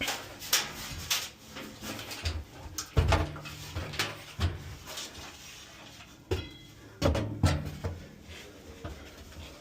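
Knocks and clatter of metal parts and tools being handled while a furnace blower motor is being swapped, with heavier thumps about three seconds in and again about seven seconds in.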